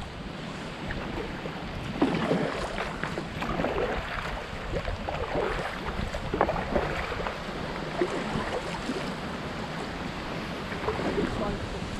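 Kayak paddle strokes splashing in the water at an irregular pace, over a steady wash of wind on the microphone.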